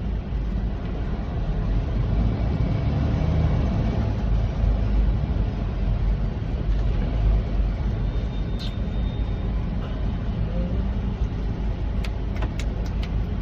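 Steady low rumble of a semi truck's engine and road noise heard inside the cab while driving at highway speed. A few sharp clicks come near the end.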